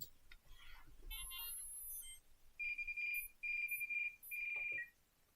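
RC helicopter's speed controller playing its startup tones as the 3-cell flight battery is plugged in: a quick run of high electronic chirps, then three long beeps of one pitch, the beep count matching a 3-cell battery. A couple of faint clicks come just before.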